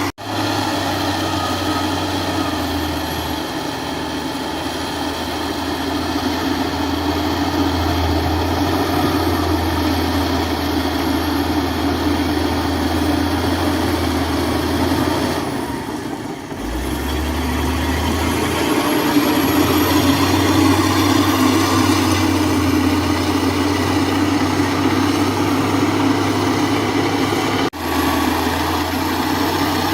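Heavy diesel engine of earth-moving machinery running steadily. About halfway through, the sound dips briefly, shifts lower in pitch, then picks back up. Two very short dropouts break it, one right at the start and one near the end.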